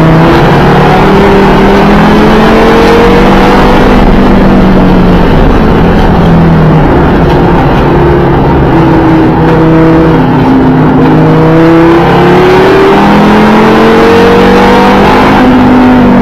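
2012 Audi TT RS's turbocharged five-cylinder engine at race pace, very loud, its note climbing under acceleration and falling back several times.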